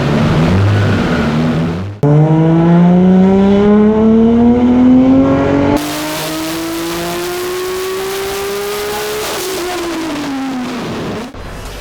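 Nissan GT-R R35's built 4.1-litre V6 engine, heard in several cut-together clips: first pulsing revs, then a loud pull whose pitch climbs steadily under throttle. A quieter pull follows, rising further before its pitch falls away near the end.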